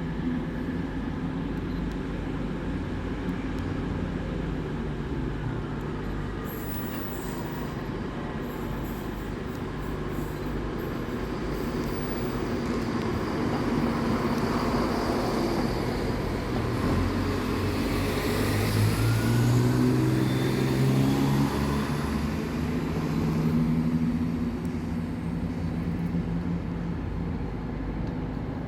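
Passenger train moving at a station platform. Its engine and traction noise swells with lines shifting in pitch, is loudest about two-thirds of the way in, then eases off.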